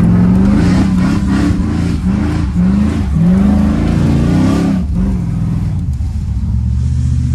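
Straight-piped V8 swapped into a Holden Commodore VS, heard from inside the cabin, revving hard under acceleration. Its pitch climbs and falls several times, then about five seconds in it settles to a steadier, lower drone.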